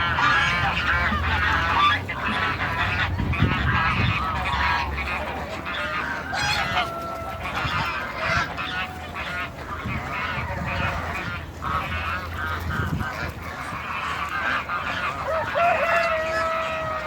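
A flock of domestic geese, African and Toulouse, honking and calling over one another in quick, overlapping calls, with a few longer drawn-out honks.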